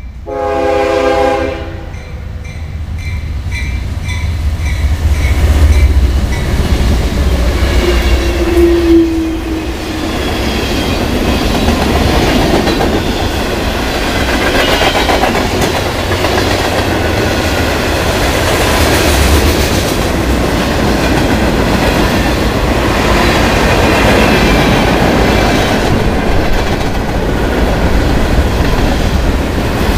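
A train horn sounds one blast of about a second and a half, then a freight train passes, with locomotive rumble and cars clattering steadily over the rails.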